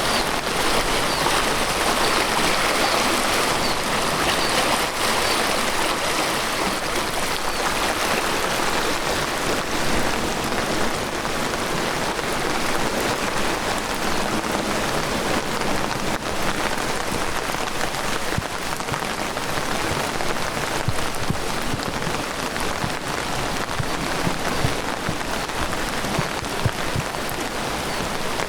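Heavy rain falling steadily: a dense, even hiss of downpour with many scattered drop hits.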